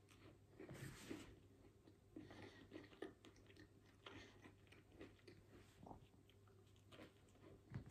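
Faint close-up biting and chewing of a soft sandwich: untoasted white toast bread with processed cheese slices and cooked red peppers, with small wet mouth clicks.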